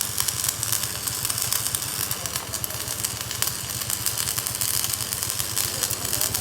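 Workshop machinery running steadily with a fast, even low throb, under a constant crackling hiss with frequent small ticks.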